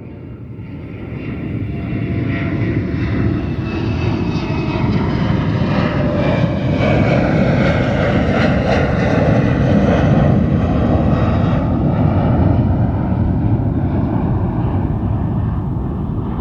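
Jet aircraft taking off: engine noise that builds over the first few seconds to a steady, loud rumble, with whining tones above it that slowly fall in pitch.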